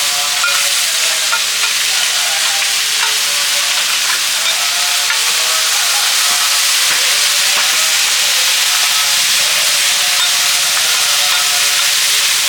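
Food frying in hot oil on a street-food stall, a steady sizzle, with stirring in the pan.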